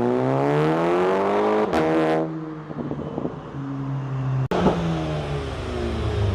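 Car engine revving as it pulls away, its pitch rising for under two seconds, then a gear change and steadier, lower running. An abrupt cut about four and a half seconds in is followed by more engine sound and a low rumble.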